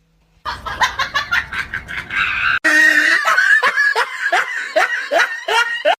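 Laughter in quick repeated bursts. It breaks off suddenly a little over halfway through and goes straight into a louder run of short falling 'ha-ha' bursts.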